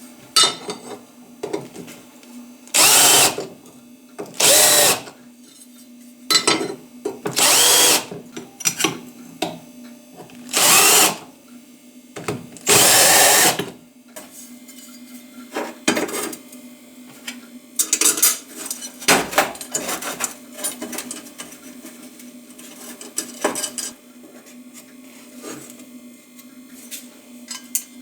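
A power tool worked on steel in short bursts, five bursts of about a second each in the first half, followed by light clicks and taps. A steady low hum runs underneath.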